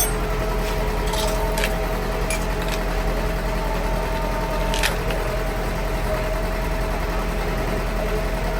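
A motor or engine running steadily at a constant speed, with a few sharp metallic clicks or taps over it: one at the very start, a couple just over a second in, and one about five seconds in.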